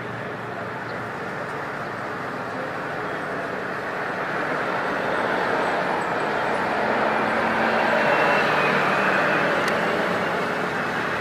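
Jet airliner passing, a broad rushing roar that swells to its loudest about eight seconds in and then begins to fade.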